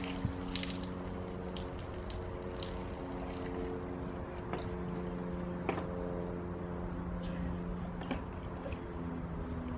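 Hoverboard's lithium battery pack burning, fizzing like pouring liquid, with a few sharp pops, over a steady low hum that shifts pitch now and then.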